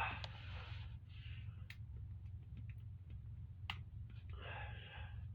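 A few sharp clicks of a tool working at a stuck hot sauce bottle cap, with two heavy sighing breaths, one near the start and one near the end.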